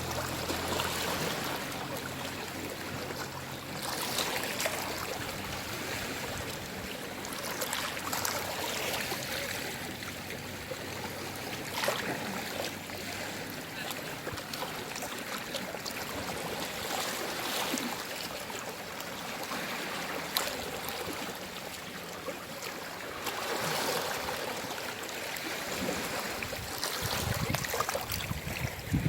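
Calm sea waves washing and lapping at the shore, swelling and falling back every few seconds.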